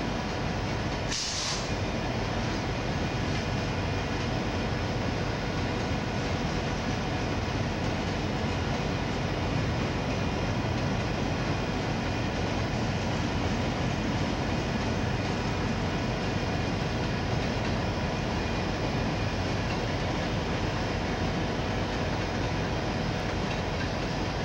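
Freight train cars rolling steadily past on the rails, a continuous rumble of wheels on track, with a brief high-pitched burst about a second in.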